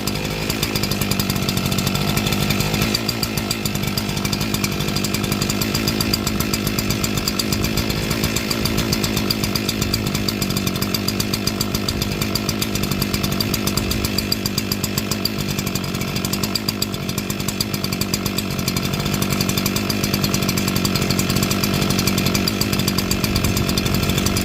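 Echo CS-4910 two-stroke chainsaw engine running steadily after a cold start in freezing weather, warmed up and running fine. It cuts off suddenly at the end.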